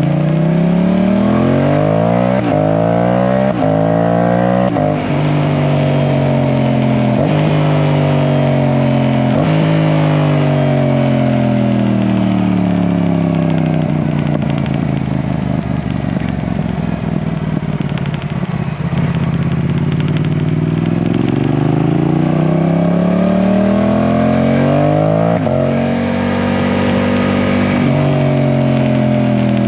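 Yamaha R7 motorcycle engine under way, accelerating through the gears. Its pitch climbs and drops sharply at each of several quick upshifts in the first ten seconds, then falls steadily as it slows, then climbs again with one more shift near the end.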